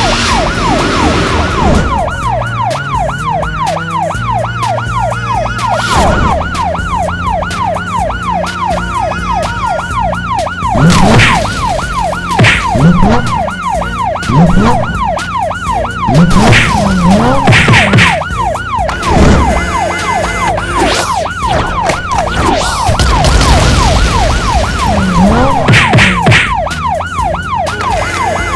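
Emergency-vehicle siren sound effect, a fast yelp that sweeps up and down in pitch several times a second without a break, over background music with a few loud hits and bouncing cartoon-style glides.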